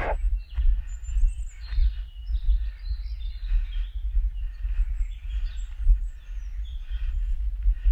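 Small birds chirping and twittering in the forest, over an uneven low rumble of wind on the microphone.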